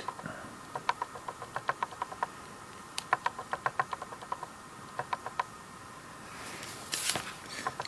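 Series of light, irregular clicks and taps in small clusters, followed near the end by a brief soft hiss.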